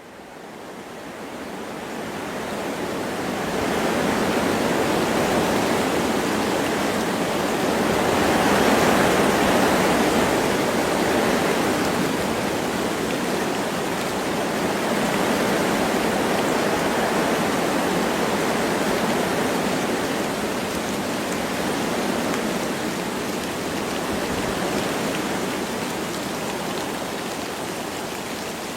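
Wind blowing through forest trees with light rain: a steady rushing hiss that fades in over the first few seconds, then slowly swells and eases.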